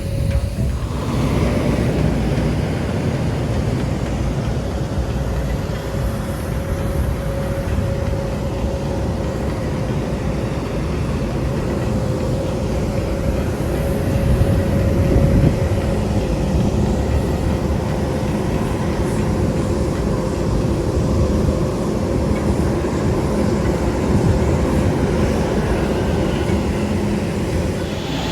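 Steady, loud low rumble with a constant mid-pitched hum running through it.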